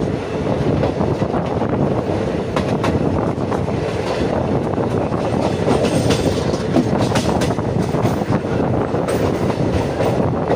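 Passenger train running along the track, heard from on board: a steady rumble of the coaches with scattered clicks of the wheels over rail joints.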